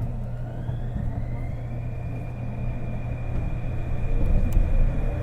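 Interior running sound of a Kobe New Transit 2020-series Port Liner car, a rubber-tyred automated guideway train. A motor whine rises in pitch over the first couple of seconds and then holds steady over a low rumble. Near the end a second, lower whine starts rising and the rumble grows louder.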